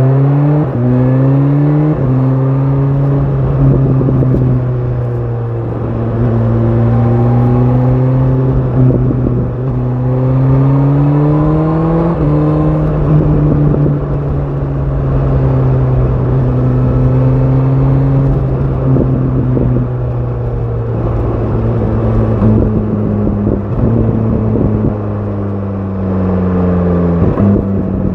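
BMW S1000 RR's inline-four engine through an Akrapovic exhaust, pulling hard at the start with a quick upshift about two seconds in. It then runs at a fairly steady pitch that rises and falls gently, with a few more drops in pitch where the gears change.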